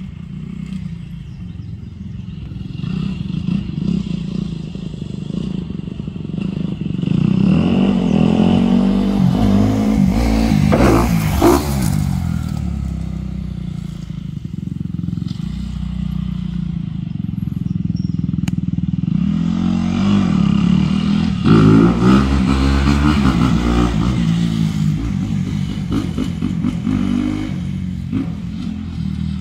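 Dirt bike engine revving and easing off as it is ridden, with two longer runs of hard acceleration, one about a quarter of the way in and another past the middle.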